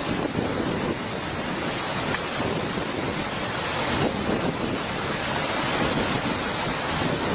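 Steady, loud rushing noise of fast-flowing floodwater, even and unbroken throughout.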